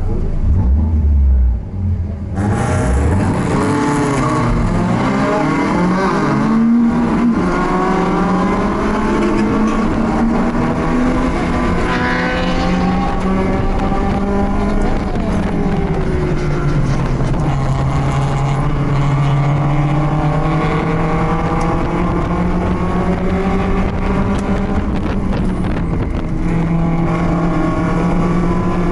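BMW race car engine at a low rumble, then pulling away hard at full throttle about two seconds in. The revs climb and drop back with each gear change, then hold a steady high note at speed.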